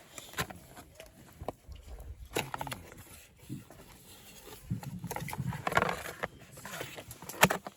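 Scattered clicks and knocks of things being handled, the sharpest one near the end, with a denser stretch of clatter just past the middle.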